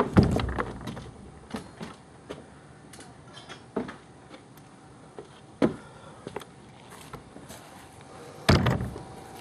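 A few scattered knocks and thumps, the loudest just after the start and another near the end, with smaller ones in between.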